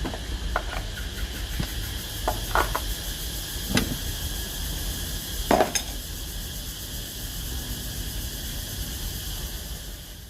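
Kitchen utensils clinking against dishware a handful of times, the loudest about five and a half seconds in, over a steady hiss.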